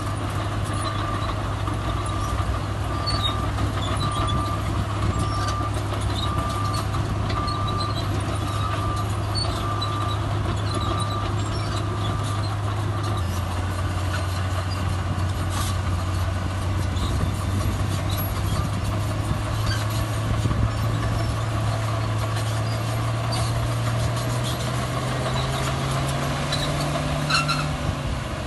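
Heavy diesel earthmoving machinery running steadily, with a reversing beeper sounding about once a second for the first twelve seconds. Near the end the engine revs up, then drops back.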